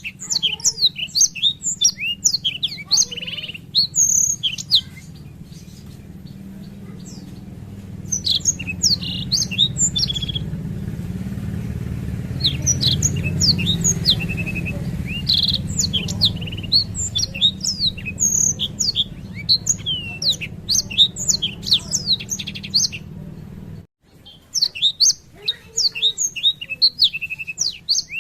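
Black-throated canary (blackthroat) singing long, rapid, twittering song phrases broken by short pauses. A steady low hum sits underneath and stops abruptly near the end.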